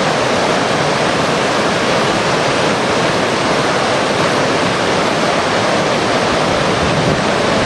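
River water rushing steadily and loudly, as through a rapid or small drop.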